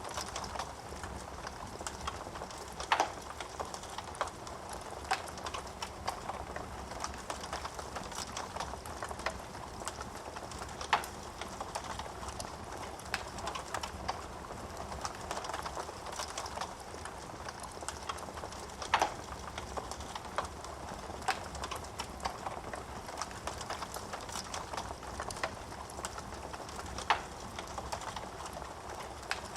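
Wood fire crackling in a fireplace: a dense run of small crackles with four louder pops, about eight seconds apart.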